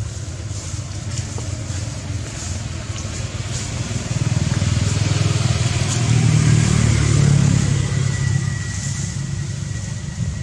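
A motor vehicle's engine running, growing louder to a peak past the middle and then fading, like a vehicle passing by.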